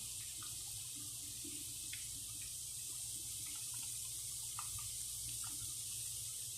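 Wheat-flour diamond chips deep-frying in oil: a steady sizzle with scattered small pops and crackles.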